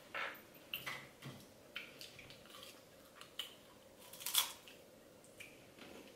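Faint, scattered crunching and clicking of someone biting and chewing a crisp snack, with the loudest crunch a little past the middle.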